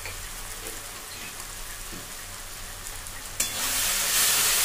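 Spiced onion-tomato masala sizzling gently in a metal kadai. About three and a half seconds in, a metal spatula starts stirring and scraping it around the pan, and the frying suddenly gets much louder.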